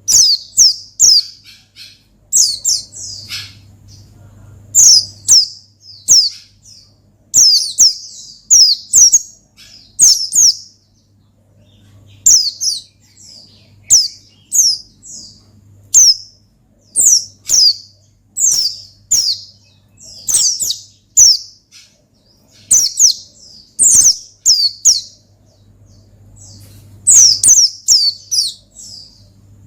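A pleci (white-eye) singing in rapid clusters of high, falling chirps, a burst about every second, in the vigorous 'ngalas' style played to rouse caged pleci into song. A faint steady low hum runs underneath.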